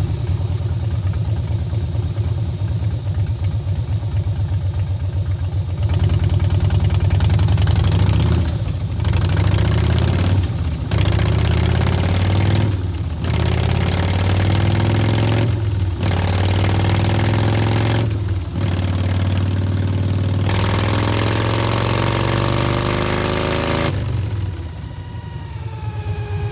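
2009 Harley-Davidson Softail Deluxe's Twin Cam V-twin through Bassani Turnout Pro Street mufflers: idling for a few seconds, then opened up and run louder, its pitch climbing in several runs separated by brief dips, before dropping back to a quieter run near the end.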